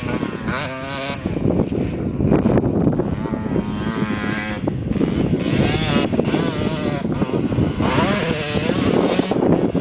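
Two-stroke Suzuki 125 motocross motorcycle engine running hard, its pitch climbing and dropping again several times as the throttle is opened and the gears change.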